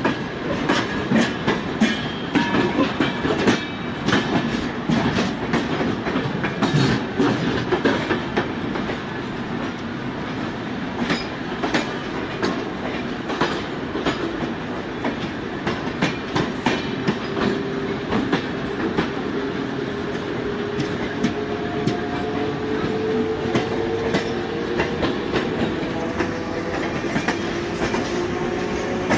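Two passenger trains running side by side, heard from the open doorway of a moving local train beside the Rajdhani Express coaches. Wheels clatter over the rail joints in a steady stream of clicks over the rolling rumble, and from about halfway a faint whine rises slowly in pitch.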